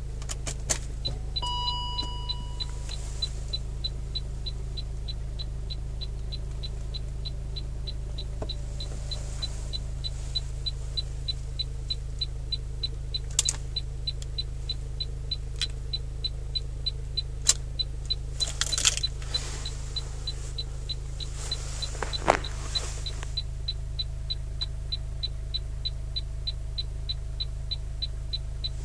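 Even, rapid electrical ticking from a BMW E38, about two or three clicks a second, over a steady low hum. A short chime-like tone sounds near the start, and a few louder knocks come through around the middle.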